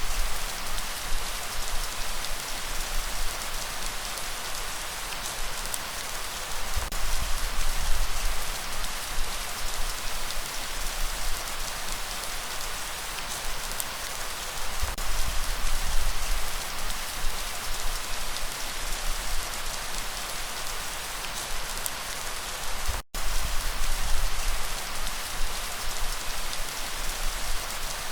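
Steady rain falling, an even hiss of drops with a low rumble underneath that swells and fades. The sound cuts out for an instant about three quarters of the way through.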